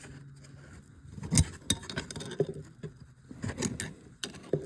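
Scattered metal clicks and clinks of a crescent wrench and a gear puller being worked on a garden tractor's hydraulic pump, with the loudest knock about a second and a half in.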